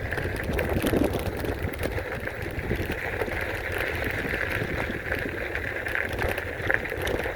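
Electric bike riding over a bumpy surface: steady tyre and road noise with many small rattles and ticks, and wind rumbling on the microphone.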